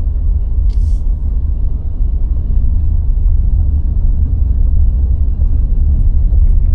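Car driving, a loud steady low rumble of engine and road noise that starts and stops abruptly at edit cuts.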